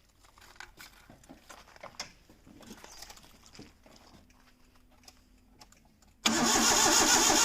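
Faint clicking and handling sounds, then near the end the Hyundai EON's starter motor suddenly cranks the engine, loud and steady, turning it over without it catching.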